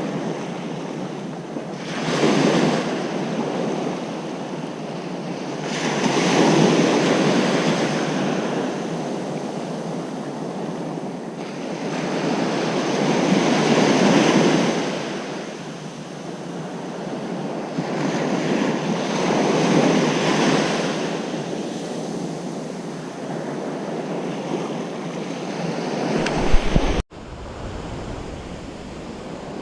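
Ocean surf on a beach: waves break and wash in about every six seconds, each surge building and fading. Near the end there is a brief loud knock, then the sound breaks off abruptly and picks up again.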